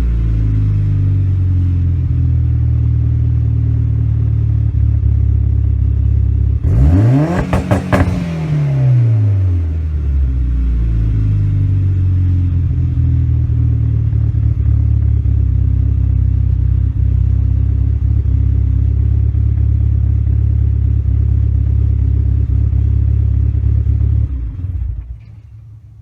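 Turbocharged 2.0-litre 4G63 inline-four of a Mitsubishi Lancer Evolution running on E85, heard through an Espelir JGT500 exhaust. It idles with a deep, steady note. About seven seconds in it is blipped once, rising sharply and falling back with a few crackles. Near the end the sound cuts off.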